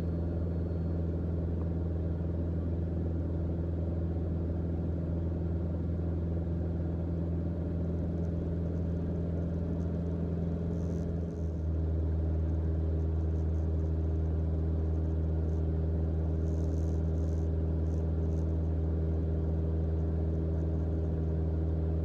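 Cockpit drone of a Mooney M20J's four-cylinder Lycoming IO-360 engine and propeller at cruise power, a steady hum. About eleven seconds in it dips briefly, then settles slightly louder and lower.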